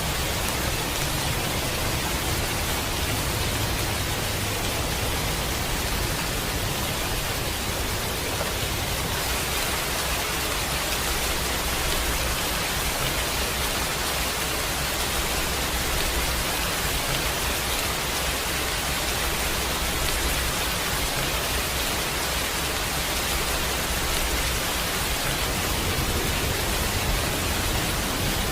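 Steady heavy rain, an even hiss, with a low rumble underneath that comes and goes, typical of distant thunder.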